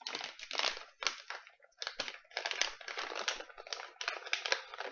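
Snack bag crinkling, with dense irregular crackle as it is handled and opened.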